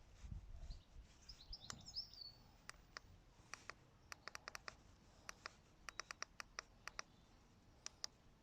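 A bird chirps briefly, then comes a run of sharp, irregular clicks, two or three a second, for several seconds.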